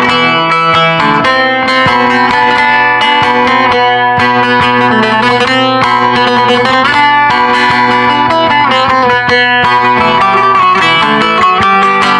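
Bağlama, a Turkish long-necked lute, playing a fast run of plucked notes over steady low ringing drone tones.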